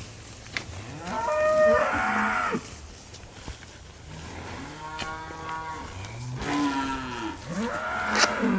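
Cattle mooing, several calls in turn: one about a second in, a long one around the middle and two more near the end. Each call rises and then falls in pitch.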